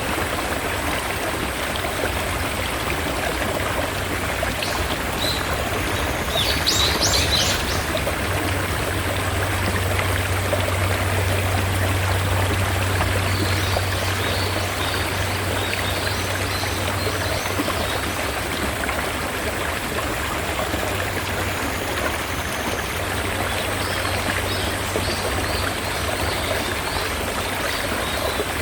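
Mountain stream running steadily, with birds calling over it: a brief cluster of high calls about six seconds in, and runs of quick short chirps around the middle and near the end.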